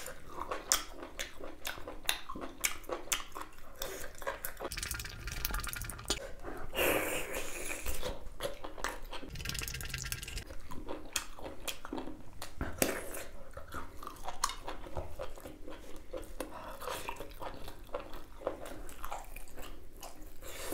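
Close-miked chewing of half-cooked, very chewy beef innards: a run of wet mouth clicks and smacks.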